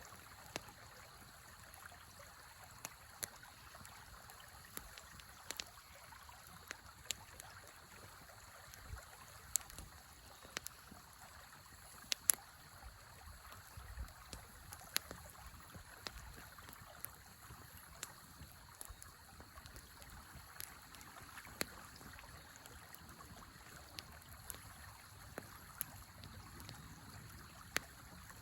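Wood fire crackling with sharp, irregular pops over the steady rush of a river.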